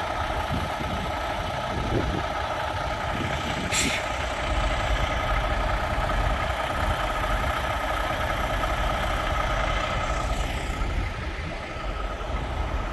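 Semi-truck diesel engine idling steadily, with a steady whine over the low rumble. About four seconds in there is one short, sharp hiss.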